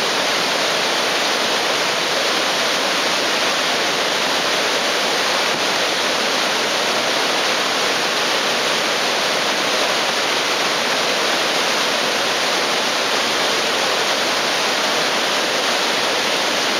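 Sogi Falls, a broad waterfall on the Sendai River, pouring with a steady, loud rush of falling water.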